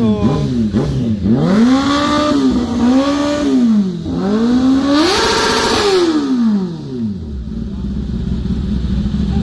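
Honda CBR650R's inline-four engine, fitted with an SC-Project full exhaust system, being revved: a few quick throttle blips, then longer revs that climb and hold. The highest and loudest is about five seconds in, before the engine drops back to a steady idle about seven seconds in.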